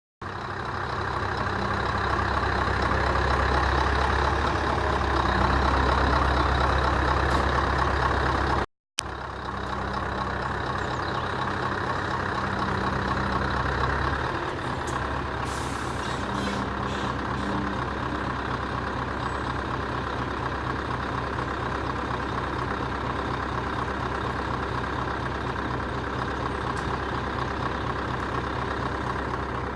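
Scania lorry's diesel engine running steadily, a little louder for the first several seconds. The sound drops out completely for a moment about nine seconds in, and a short hiss comes around the middle.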